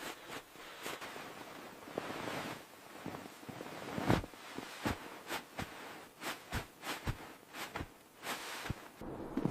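A series of irregular crunches and knocks, coming thick and fast in the second half, over a faint steady hiss.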